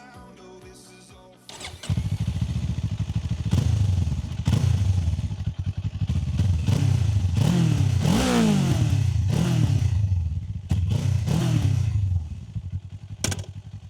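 Kawasaki Z500's parallel-twin engine starting a little under two seconds in, then idling with a series of short throttle blips, each rev rising and falling back, before settling to idle near the end.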